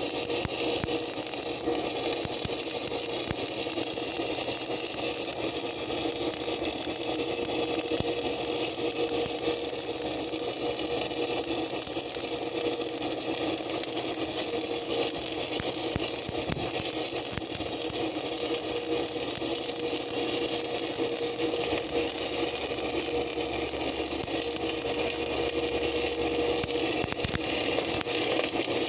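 Steady crackling hiss of a stick-welding arc laying a long bead on a steel backhoe arm, with the steady hum of a running engine underneath.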